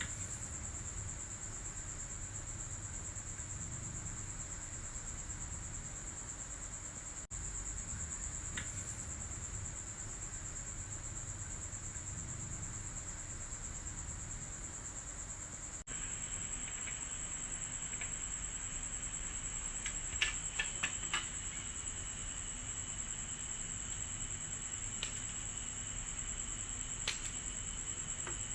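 A cricket trilling steadily in a high, unbroken tone, with a few light clicks and taps from work at the bench about two-thirds of the way through.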